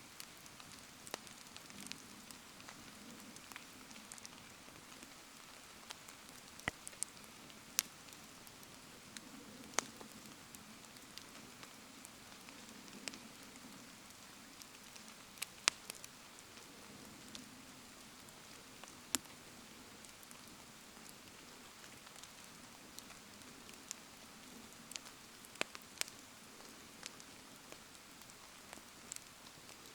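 Wood bonfire crackling, with irregular sharp pops scattered through, over a steady hiss of rain falling.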